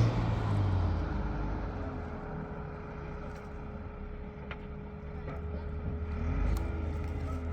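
Tractor engine running, loud at first and fading over the first second, then a steadier hum with a brief rise and fall in engine pitch near the end.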